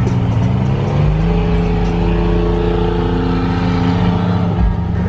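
Car engine running while driving, its pitch rising about a second in and then holding steady as the car cruises.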